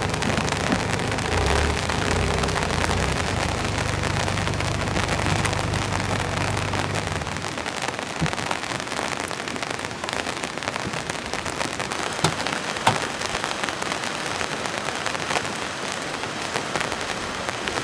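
Heavy rain coming down, an even hiss scattered with sharp individual drop hits. A low rumble sits under it for the first seven seconds or so, then falls away.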